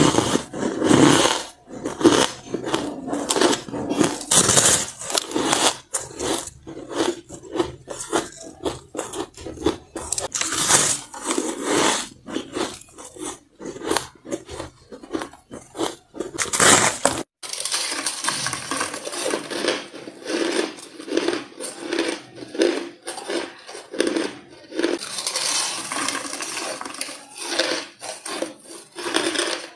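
Close-up crunching and chewing of white ice: bite after bite, several crunches a second, the ice cracking and grinding between the teeth.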